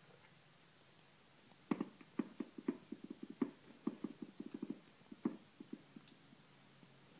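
A quick, uneven run of soft taps, several a second, starting about a second and a half in and dying away about six seconds in.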